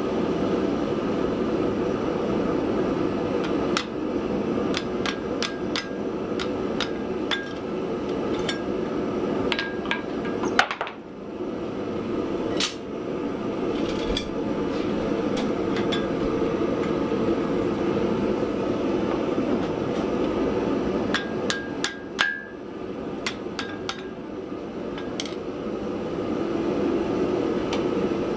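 Hammer striking metal on an anvil in irregular runs of light blows, with two heavier blows standing out, over a steady rushing background noise.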